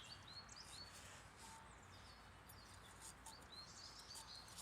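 Quiet outdoor background with faint bird chirps: a few short, high calls near the start and again near the end.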